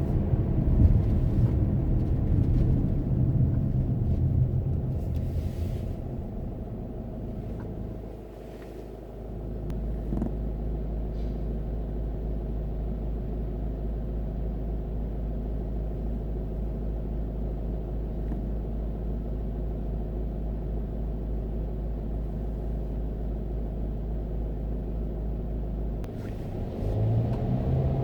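Car engine and road rumble heard while driving: a loud low rumble that eases off about eight seconds in, then a steadier, quieter hum, which rises again near the end.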